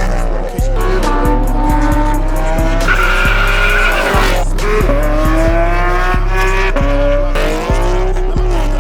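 A high-performance car engine at full throttle, its pitch climbing through each gear and dropping at the shifts about half a second in, just after four seconds and near the end. A hip-hop beat with heavy bass runs under it.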